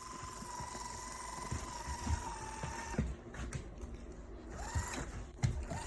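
Self-rolling motorized dog ball's small motor whining steadily, with soft knocks as it bumps about. The whine cuts off about halfway through as the ball pauses.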